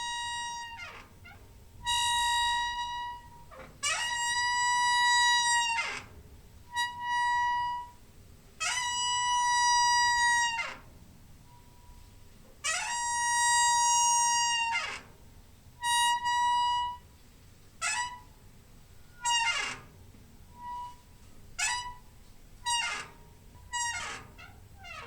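A door hinge squeaking in a string of creaks. The first several are long and held at one high pitch, each sliding down as it ends. From about eighteen seconds in they turn into shorter, quicker squeaks.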